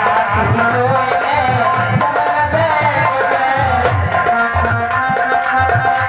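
Instrumental interlude of North Indian folk music: a hand drum beats a steady rhythm of deep strokes under a wavering, ornamented melody line.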